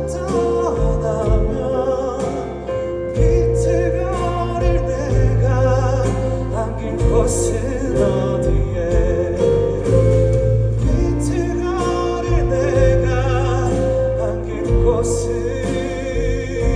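Live band music with a sung melody over bass and drums.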